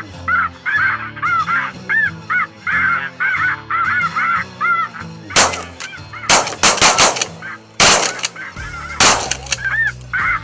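A flock of snow geese calling, many overlapping short honks, interrupted in the middle by a rapid volley of about half a dozen shotgun shots; the calling resumes near the end.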